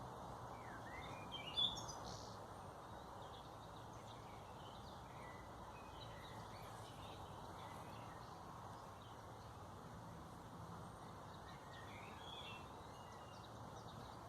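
Small birds chirping and calling here and there over a faint, steady background noise, with one short, louder chirp about one and a half seconds in.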